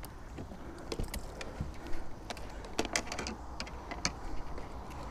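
Irregular small clicks and rattles of fishing gear and a lure being handled in a kayak, a few sharp ticks a second.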